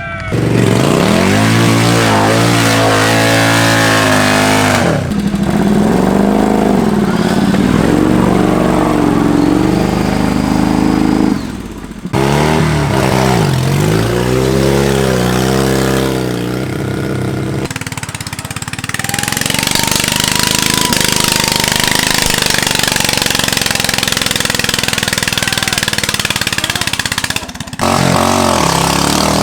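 Modified lawn-tractor (mud mower) engines revving hard, pitch climbing and dropping with the throttle, in several cut-together passages that change abruptly; the second half is a harsher, noisier stretch of high-revving engine.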